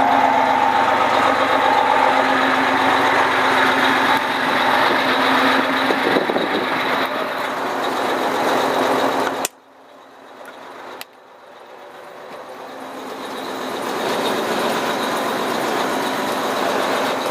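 Fire engine's engine idling in drive, a loud steady hum. About halfway through it cuts out abruptly, and after a click it builds back up over a few seconds.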